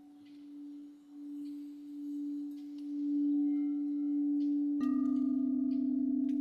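Crystal singing bowl sounding a steady low tone that swells and fades in waves, then is struck again about five seconds in and rings louder.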